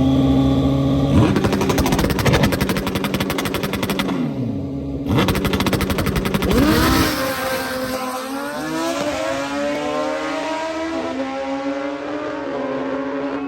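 A drag-racing engine idles at the line, then launches at full throttle with a fast, hard-firing exhaust note. The note breaks off briefly about four seconds in, as at a gear change, then picks up again and fades down the track as its pitch falls away. Another engine keeps idling steadily behind it.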